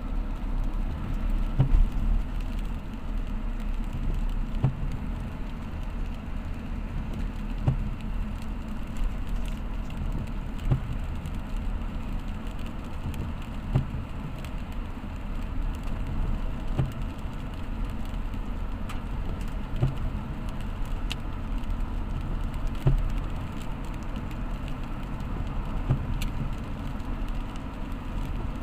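A road vehicle travelling in the rain: a steady low rumble of engine and tyres, with a short low thump about every three seconds.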